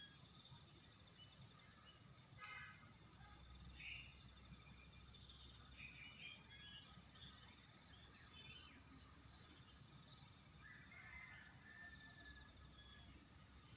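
Faint wild birdsong: assorted short chirps and calls, with a run of quick repeated notes near the middle, over a steady high insect buzz.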